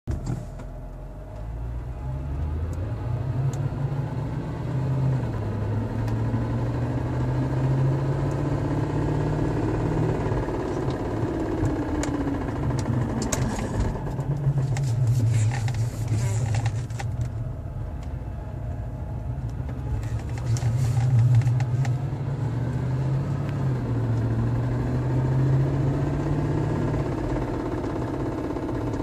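Mercedes C43 AMG engine running, its pitch slowly rising and falling, with a ticking noise that the owner cannot identify.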